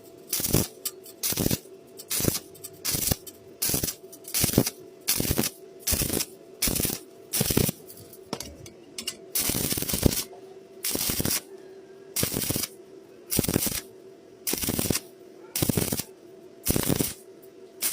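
Electric welding arc crackling in short, evenly spaced bursts, a little more than one a second, as the bead is laid in stitches across the joint, with a steady hum between the bursts.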